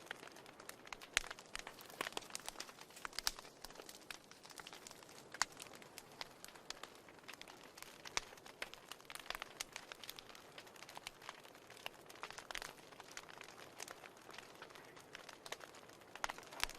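Wood fire crackling in a fireplace: a soft hiss with irregular pops and snaps, some sharper than others.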